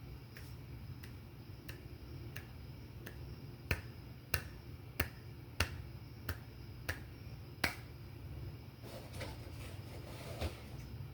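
Finger snapping: about a dozen sharp snaps in a steady rhythm, roughly one and a half a second, growing louder in the middle, then stopping, followed by soft rustling near the end.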